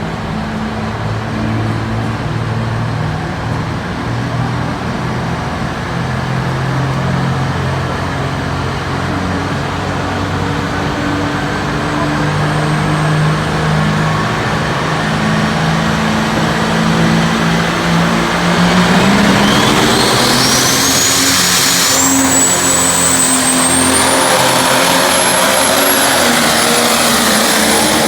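Fendt pulling tractor's engine running under load, its pitch rising about two-thirds of the way through as a high whine climbs in steps and then holds.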